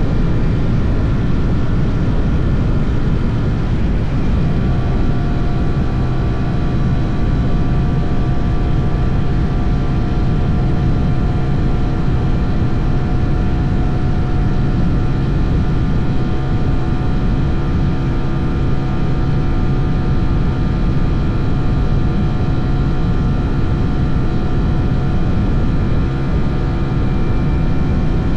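SYM NH 180 motorcycle engine running at a steady cruising speed, with a dense rumble of wind and road noise. Its note shifts slightly about four seconds in, then holds steady.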